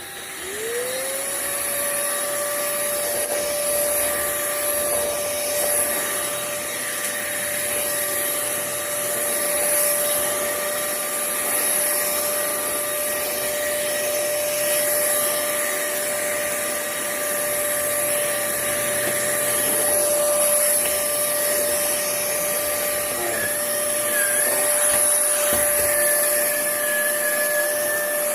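Fieety 600 W cordless stick vacuum cleaner's motor spinning up over about a second, then running steadily with a constant high whine and airflow hiss.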